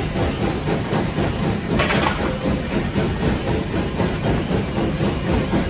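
Nevada Northern No. 81, a 2-8-0 steam locomotive, running under way as heard in its cab: a loud, steady rumble and clatter, with a short hiss about two seconds in.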